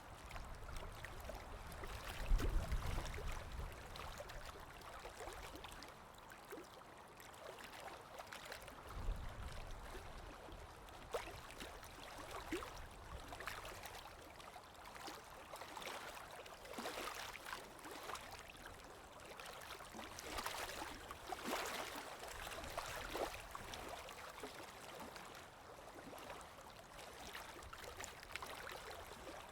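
Water lapping with soft splashes and wind, with two low gusts of wind rumble about two and nine seconds in.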